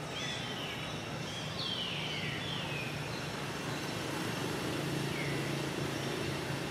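A bird giving short whistled calls that slide downward in pitch, about four of them, over a steady low hum and a background hiss of outdoor ambience.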